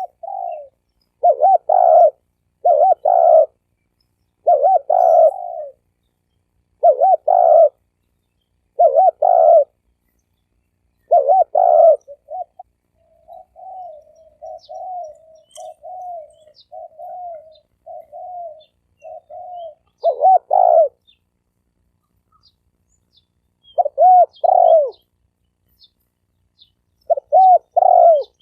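Spotted dove cooing: loud phrases of two or three coos repeated every second or two. Midway comes a run of softer, quicker low coos, then the loud phrases resume with longer gaps.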